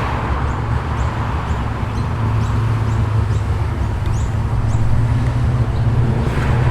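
A car engine running at low revs with a deep, steady rumble that grows a little louder about two seconds in, while small birds chirp again and again.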